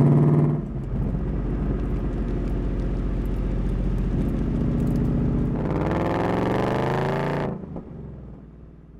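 Ford Mustang Mach 1's 5.0-litre V8 running. The engine note drops about half a second in to a steady low rumble, then climbs in pitch from about six seconds before cutting off suddenly.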